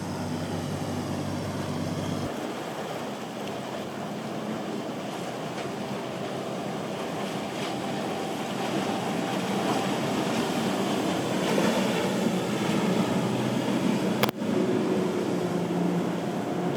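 Boat engines running through the inlet over the sound of waves and wind on the microphone. The engine sound stops abruptly about two seconds in, and a louder engine passes later, cut by a sharp click near the end.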